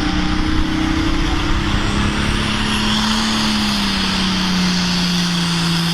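International Harvester pulling tractor's engine running hard at high revs, its pitch climbing slightly about two seconds in and then easing back down.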